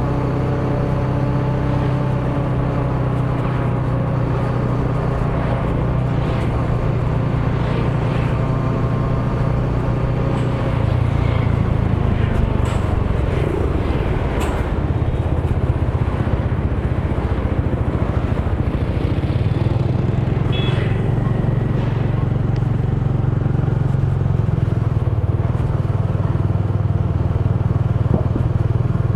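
Motor scooter engine running steadily while riding through city streets, its engine note changing about ten seconds in, with road noise and a few brief clicks and a short higher-pitched sound from the street.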